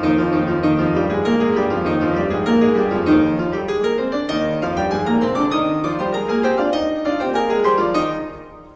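Background piano music, a flowing run of notes that fades out near the end.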